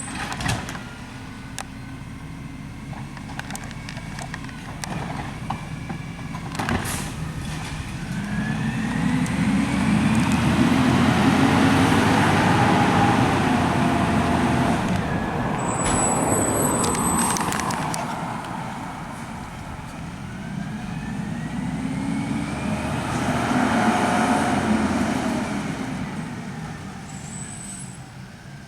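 Garbage truck engine running, its sound swelling up and dying back down twice, each swell starting with a rising whine; a few sharp knocks along the way.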